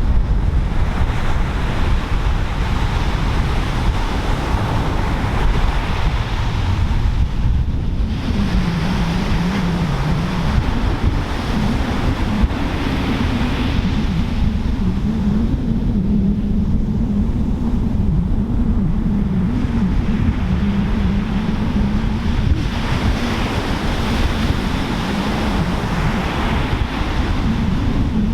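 Pacific surf breaking and washing in, with strong wind buffeting the microphone. From about a third of the way in, a low wavering drone runs underneath.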